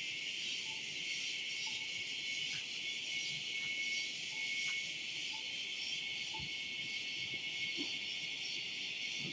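A steady, dense chorus of forest insects shrilling. Faint short notes repeat about once a second underneath.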